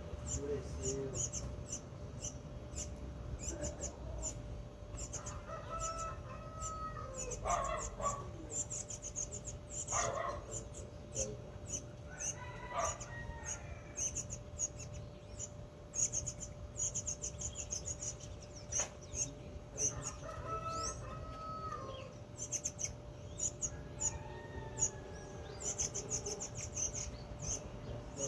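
Birds calling: a steady stream of rapid, high-pitched chirps, broken now and then by lower, longer calls lasting a second or two, from cardinals and a young shiny cowbird.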